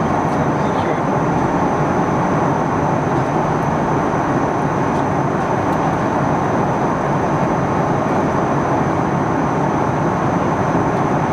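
Steady roar of engine and airflow noise inside the cabin of an Airbus A310-300 in flight, with a thin, faint high whine running through it.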